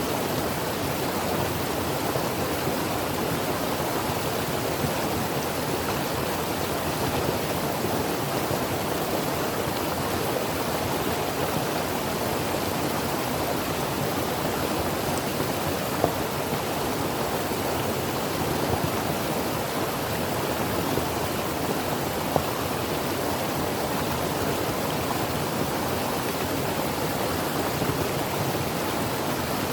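Creek water flowing over rocks: a steady, even rushing.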